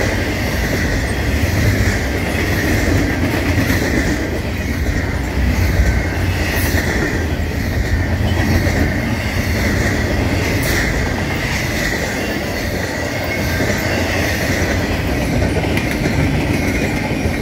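Double-stack intermodal container train's well cars rolling past on jointed track: a steady low rumble of wheels on rail with a high-pitched whine, and two sharp clicks partway through.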